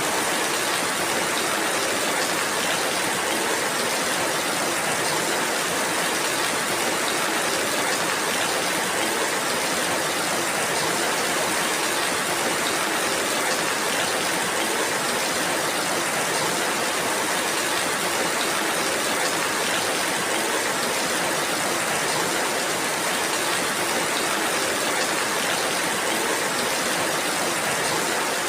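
Steady rainfall: an even, unbroken hiss of rain with no thunder and no separate drops standing out.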